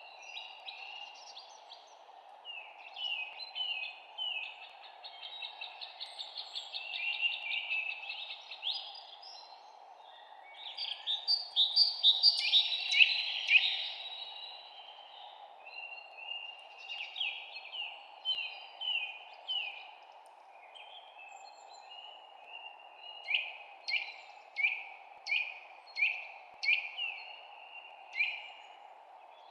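Songbirds chirping and singing in quick overlapping phrases, loudest about halfway through, then a bird repeating one sweeping note about eight times near the end, all over a steady low background noise.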